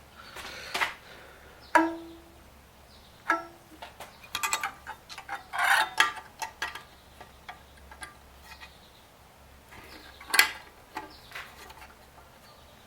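Irregular light metallic clicks and taps from hands working a Craftsman scroll saw's blade clamps and tension knob while the new blade is tensioned, with a couple of short ringing tones near the start.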